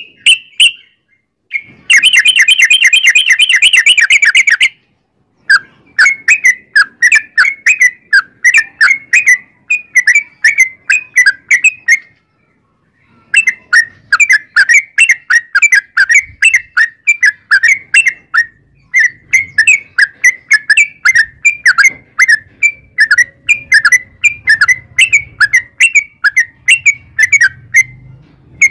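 Yellow-vented bulbul (trucukan) song: a very fast rattling run of notes about two seconds in, then long strings of quick, chattering whistled notes repeated phrase after phrase, broken by a couple of short pauses. This is the long rapid 'ropel' song used as a lure to get other trucukan birds singing.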